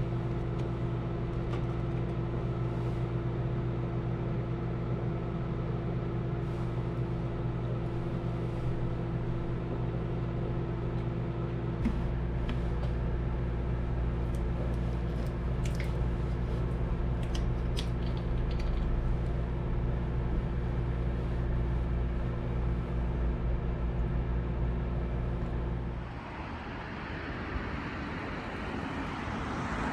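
Microwave oven running with a steady electrical hum, a few faint ticks partway through. About 26 seconds in the hum stops and a rushing hiss follows.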